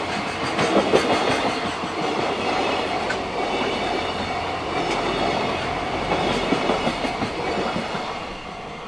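JR Freight container train of Koki 104 flat wagons rolling past, wheels clattering steadily over the rail joints. The noise eases near the end as the last wagons pass.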